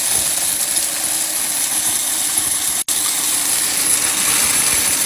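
Coin counting machine running with a dense, steady rattle of coins streaming through it. The sound cuts out for an instant about three seconds in.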